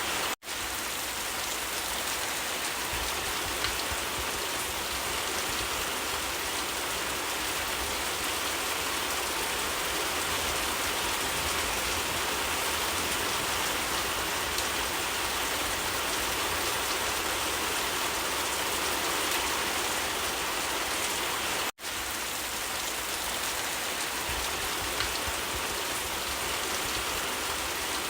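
Steady, even rainfall with patter on surfaces. Two very short gaps, just after the start and about three quarters of the way through, where the sound cuts out for an instant and resumes.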